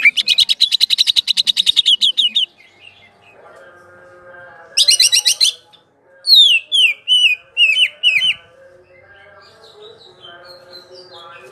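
Green leafbird (cucak ijo) singing its rolling song: a fast, high trill of rapidly repeated notes for about two and a half seconds, then after a pause a short rapid burst and a run of six or seven falling whistled notes. A faint steady hum of several low tones sits underneath from about three seconds in.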